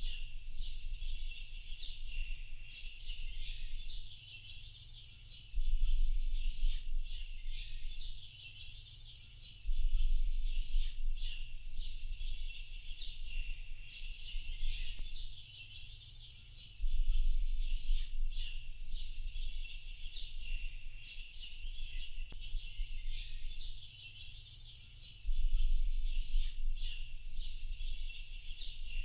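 Dense chorus of small birds chirping and twittering without pause. A low rumble sets in suddenly every four to eight seconds, is the loudest part, and fades over a few seconds.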